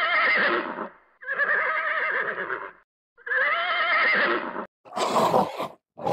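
Horse whinnying three times, each a long neigh that wavers in pitch. About five seconds in come two shorter, harsher calls of a different kind.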